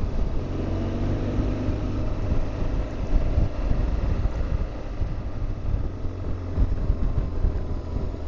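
BMW R1200GS Adventure's flat-twin engine running as the motorcycle is ridden along, with wind rushing over the microphone.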